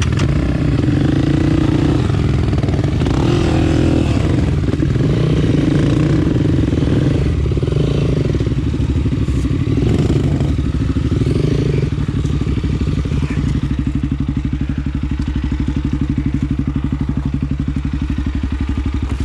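Honda CRF250F single-cylinder four-stroke trail bike engine, the throttle opened and closed several times so the revs rise and fall, then settling into a steady idle for the last few seconds.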